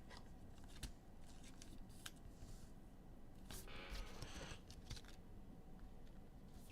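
Faint handling of trading cards and their packaging: scattered light clicks and a brief soft swish of cards sliding.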